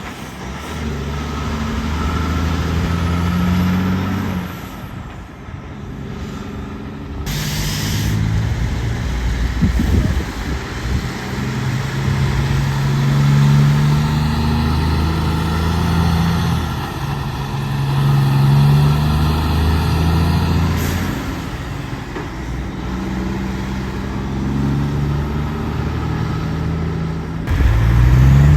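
Heavy diesel trucks running and pulling away, the engine note climbing and dropping in steps several times as if shifting through gears. A short sharp hiss about seven seconds in, typical of an air-brake release.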